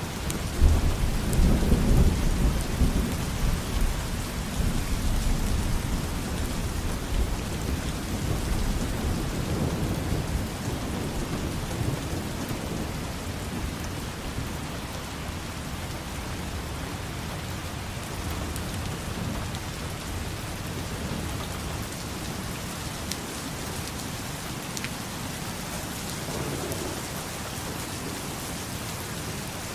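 Steady heavy rain falling, with a roll of thunder that breaks at the start, is loudest in the first few seconds and rumbles away over about ten seconds.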